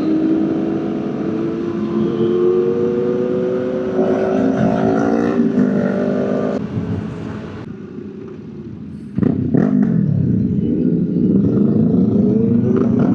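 Motorcycle engine under way, its pitch rising slowly as it pulls, then dropping away and quieter about seven seconds in. It comes back loud and sudden about nine seconds in, the pitch wavering up and down.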